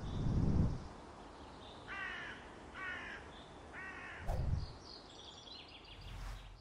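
Three short bird calls about a second apart over a faint outdoor background hiss, with higher chirping near the end. A deep low thud opens the stretch and another comes about four seconds in.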